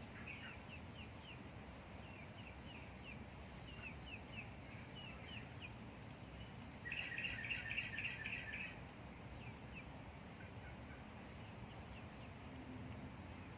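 A bird calling a string of short chirping notes. About halfway through comes a louder run of rapid chattering notes lasting roughly two seconds.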